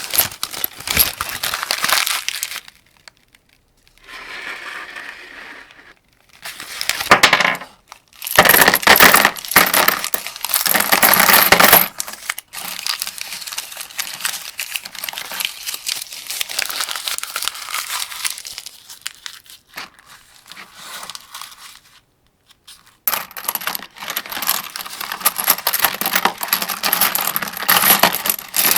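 Cartridges clinking and clicking as they are loaded one at a time into a 75-round AK-47 drum magazine. The clicking comes in dense runs, broken by a few short pauses.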